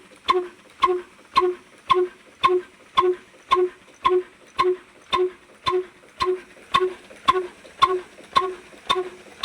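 Old black diesel engine running slowly and evenly, at about two beats a second. Each beat is a sharp knock followed by a brief ringing note.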